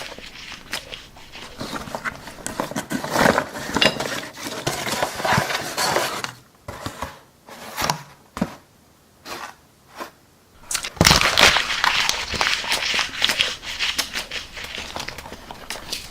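Cardboard being chewed: irregular runs of sharp crunching and crinkling crackles, thinning to a few scattered crunches from about six to ten seconds in, then dense and louder again.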